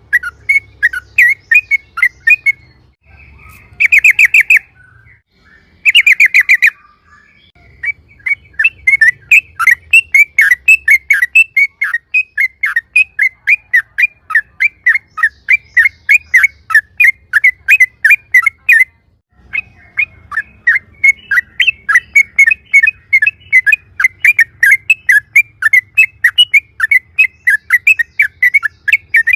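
Yellow-vented bulbul (trucukan) calling in a long, rapid rolling series of short chirps, about four or five a second. After a pause a few seconds in there are two short dense bursts, and there is a brief break about two-thirds of the way through.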